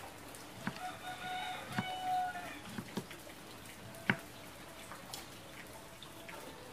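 Kitchen knife slicing a cucumber onto a wooden cutting board, a sharp knock every second or so, the sharpest about four seconds in. A rooster crows once in the background about a second in, lasting under two seconds.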